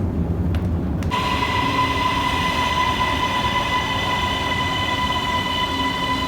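A low rumble, joined about a second in by a steady high-pitched whine that holds one pitch.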